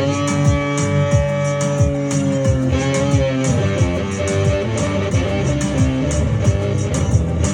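Electric guitar playing held notes that bend and waver with vibrato, over low sustained notes and a steady beat.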